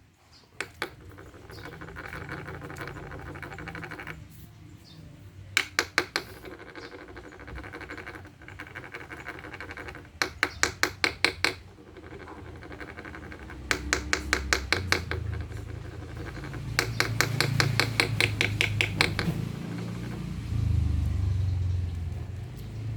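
Four bursts of rapid, evenly spaced clicking or chirping pulses, each a second or two long, over a low background hum.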